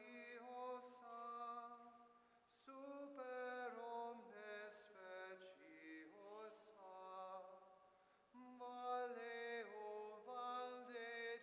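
Voices singing a slow hymn in long held notes, phrase by phrase, with brief pauses about two seconds and eight seconds in.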